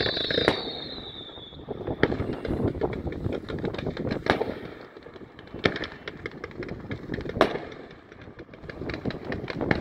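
Aerial fireworks: five sharp bangs, one every one to two seconds, with dense crackling between them. A high whistle falling in pitch fades out about a second in.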